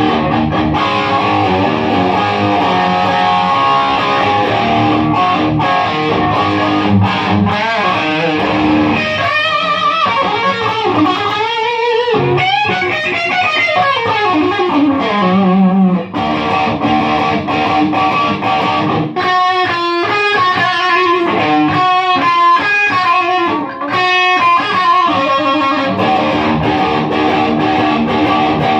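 Electric guitar played loud through a Marshall MG15 solid-state amp into a 4x12 cabinet, on the drive channel with hardly any gain, giving a crunchy, gritty tone. Held chords give way to fast lead runs with string bends, twice.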